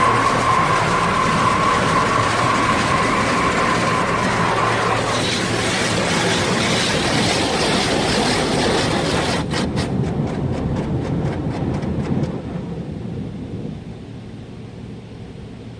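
Automatic car wash machinery running with a loud, steady rushing noise and a steady whine that stops about four seconds in. A rapid run of clicks comes about ten seconds in, then the noise drops off toward the end.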